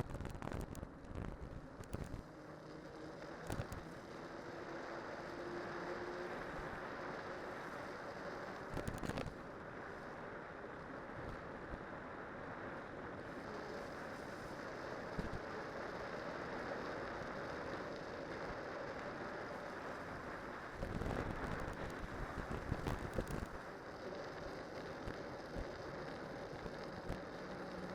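Riding noise from a cyclocross bicycle on spiked tyres going downhill: a steady rush of wind and tyre noise, with knocks and rattles from bumps now and then and a cluster of them about three-quarters of the way through.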